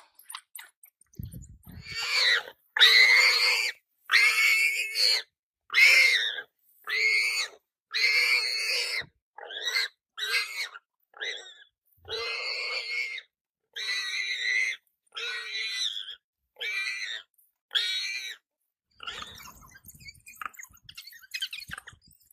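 An animal calling out over and over: about fifteen loud, pitched cries of up to a second each, with short gaps between them, growing fainter in the second half.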